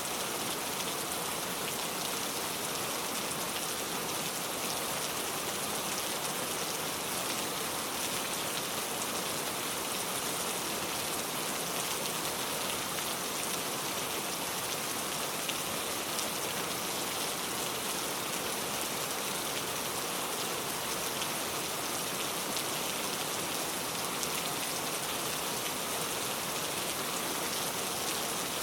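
Steady rain falling and pattering on a surface, an even hiss with fine drop impacts throughout.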